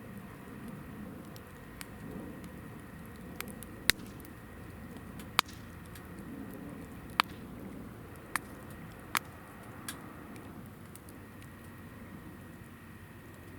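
Hinoki (Japanese cypress) firewood burning in a fire pit: a steady low rush of flame with sharp crackling pops, about five loud snaps through the middle and smaller ticks between.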